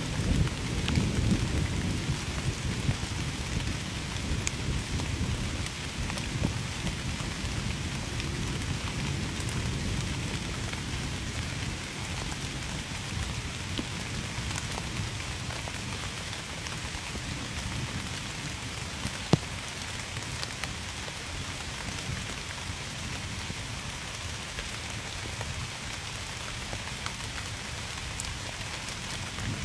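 Steady rain falling on a surface, with scattered drops ticking through it. Low rolling thunder is heard at the start and fades over the first several seconds. A single sharp tick sounds about two-thirds of the way through.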